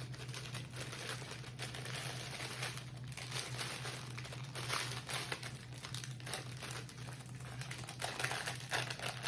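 Plastic salad-kit topping packets crinkling and rustling as they are handled and opened, over a steady low hum.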